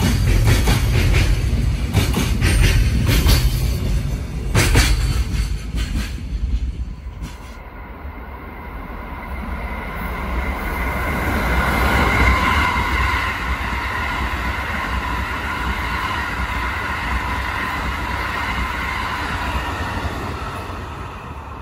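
A freight train's Koki container flatcars run past with a heavy rumble and repeated clicks of wheels over rail joints; the tail clears about seven seconds in. A yellow rail-mounted track maintenance vehicle then approaches and runs past, its engine making a low drone with a steady whine over it.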